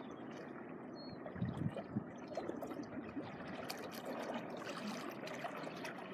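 Small waves washing at the shoreline, water trickling and crackling among rocks, with the fine crackle thickest in the second half.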